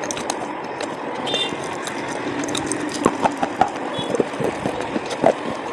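Slate pencils being bitten and chewed: scattered sharp cracks and crunches, the loudest a little past halfway and near the end, over a steady background hiss.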